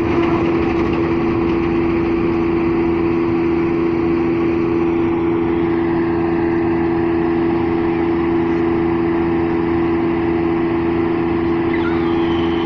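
Kubota DC-35 combine harvester running steadily: a loud, constant machine drone with a strong, even hum.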